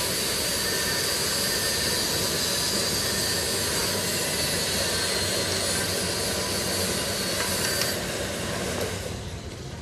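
Steady loud machinery noise with a thin high whine running through it, easing off about eight seconds in.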